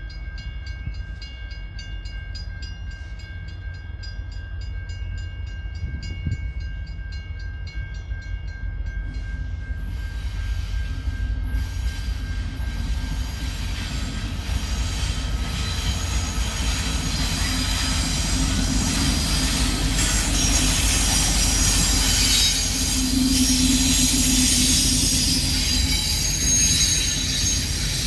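Intermodal freight train led by a Union Pacific SD70M diesel locomotive, growing louder as it approaches and runs past, with wheels squealing on the rails in the second half. A high, steady pulsing tone in the first nine seconds or so stops suddenly.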